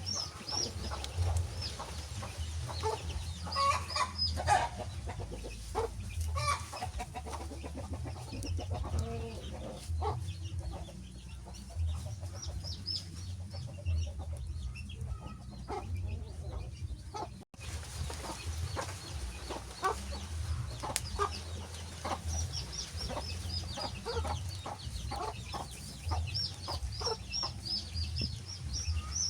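Wood fire crackling with sharp irregular pops over a low rumble. A fast run of high chirps comes at the start and again near the end, and the sound drops out for an instant a little past halfway.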